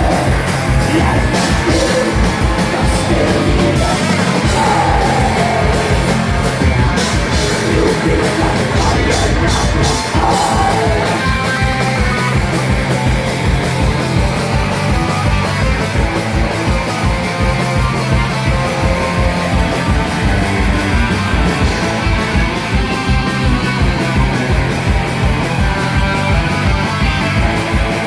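Live heavy rock band playing loud, with distorted electric guitars, bass and drums. Yelled vocals sit over the first part, and a fast, steady kick-drum pulse drives the second half.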